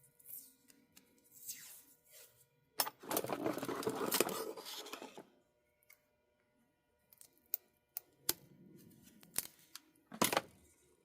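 Small parts and tape being handled on a workbench: a rustling stretch of about two seconds, then a series of sharp clicks and taps.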